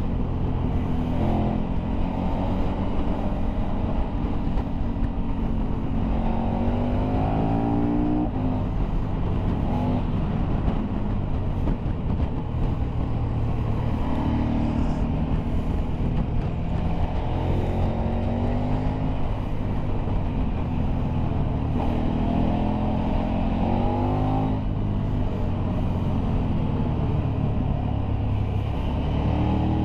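Motorcycle engine heard from on board while riding hard through bends. Its pitch rises several times as it accelerates and drops back between pulls, over steady wind and road noise.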